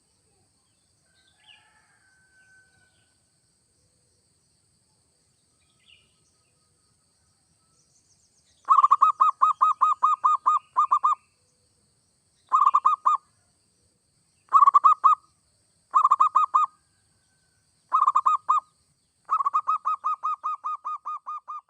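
Zebra dove (perkutut) cooing in rapid trains of short, evenly repeated notes. A long run starts about nine seconds in, four short bursts follow, then another long run that fades away at the end. Faint small chirps come in the first few seconds.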